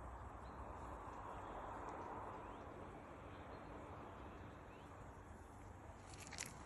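Faint outdoor ambience: a steady hiss with a few faint, short bird chirps. A few crisp steps or crunches come near the end.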